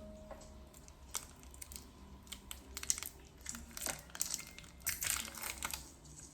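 Crinkly material being handled: a string of irregular crinkling and rustling clicks, busiest in the second half.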